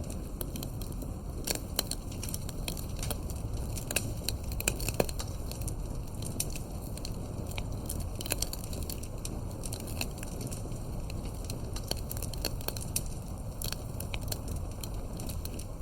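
Campfire burning, with a steady low roar of flames and frequent irregular crackles and pops of firewood, a few louder snaps in the first few seconds.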